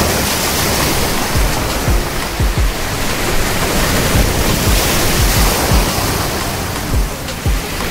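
Sea waves surging on the shore: a loud, steady rushing with repeated low thumps.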